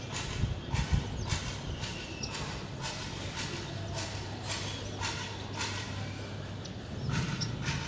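Regular footfalls, about two a second, with a few faint high chirps.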